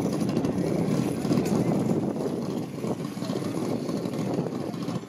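Race car engine running roughly and unevenly in the pits, with people talking around it.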